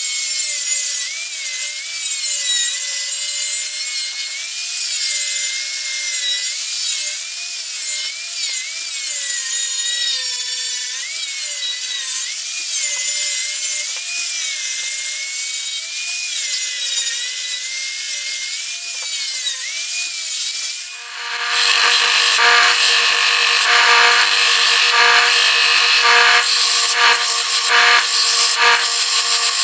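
Power tool working wood for the draw knife's handles, its pitch slowly wavering up and down as the load changes. About two-thirds of the way in the sound breaks off briefly and a different, steadier machine sound takes over.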